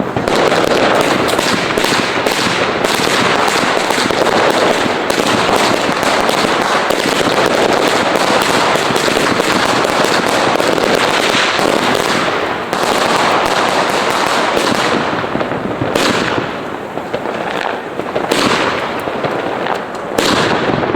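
Fireworks and firecrackers going off in a dense, continuous barrage of rapid bangs and crackles, easing off slightly in the last few seconds.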